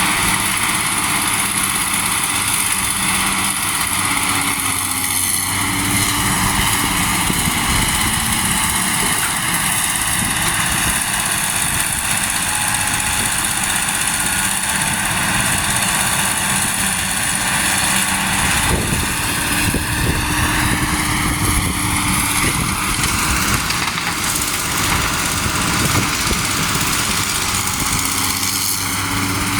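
Heavy truck diesel engines running steadily, their pitch dipping and rising again through the middle as the trucks move in the queue.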